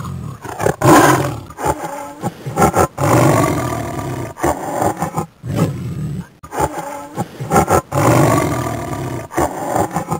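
A big cat roaring in long, harsh calls, two similar runs of roars with a brief pause in the middle.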